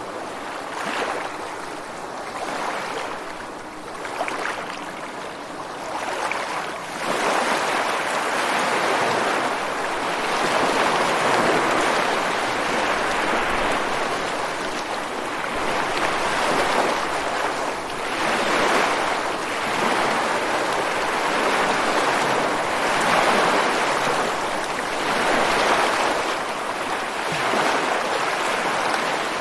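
Ocean waves breaking and washing onto rocks on the shore: a continuous rush of surf that swells and eases. It is lighter for the first several seconds, then grows fuller and louder about seven seconds in.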